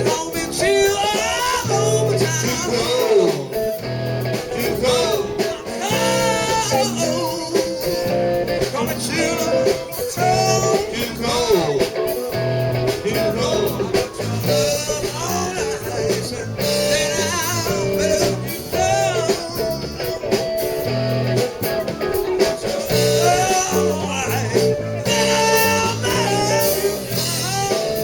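Live blues-rock band playing an instrumental break: a lead electric guitar plays bending, sliding lines over bass and drums.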